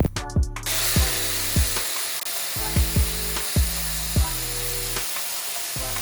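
A power tool working metal, a steady hissing noise that starts about half a second in, under background music with a deep kick drum beat.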